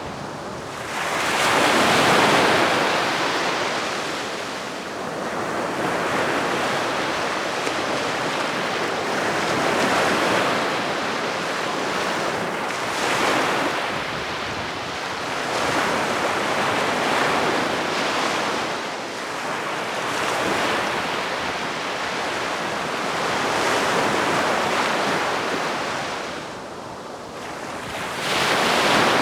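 Gentle sea waves washing onto a beach, the surf swelling and receding every few seconds, with some wind on the microphone.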